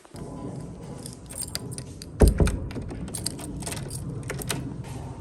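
Clinking and clattering of small hard objects, a run of sharp clicks, with one heavy thump about two seconds in.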